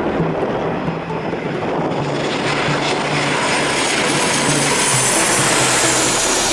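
Jet airliner engines passing close by. The roar and high whine build from about two seconds in, and the whine falls in pitch near the end as the aircraft goes past.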